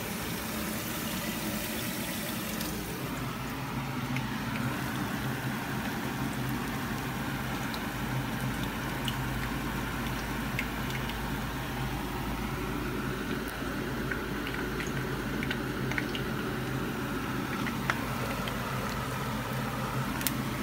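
A kitchen tap runs into a steel sink for about the first three seconds, then battered shrimp fry in oil in a pan over a gas burner: a steady bubbling sizzle with scattered small pops, over a steady low hum.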